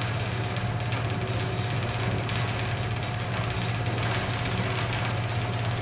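Suburban electric train running between stations, heard from inside the carriage: steady running noise over a continuous low hum.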